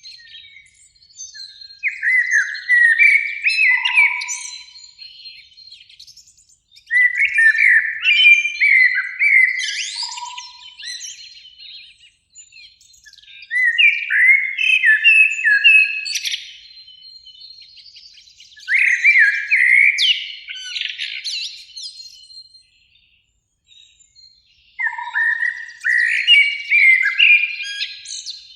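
Common blackbird singing: five phrases about five to six seconds apart, each a low fluting warble that breaks into a higher, squeaky twitter.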